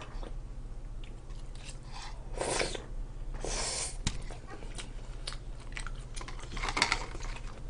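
Close-miked chewing of kimchi stew, with several louder crunchy bursts and one sharp click, over a low steady hum.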